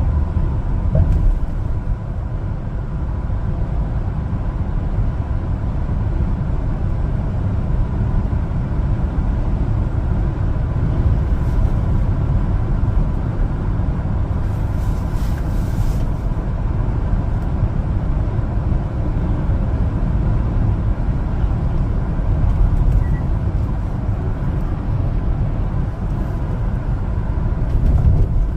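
A 1-ton LPG cargo truck driving along, its engine and road noise making a steady low rumble.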